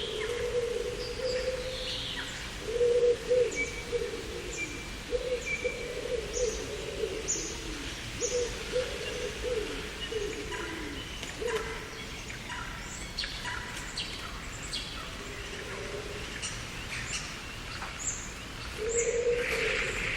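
Garden birds calling: repeated low cooing notes, some falling in pitch, with many short high chirps and whistled notes over them.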